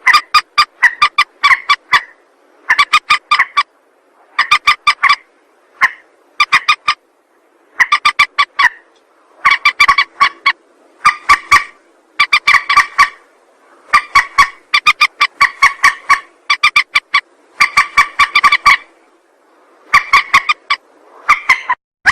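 Mandar (rail) lure call: loud bursts of rapid repeated notes, each burst up to about a second long, following one another every second or two.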